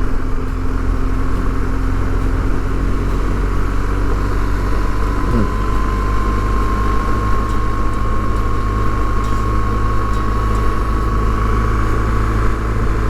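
Motorcycle being ridden along the road: a steady engine drone mixed with wind rush. About five seconds in the engine note falls as the bike slows.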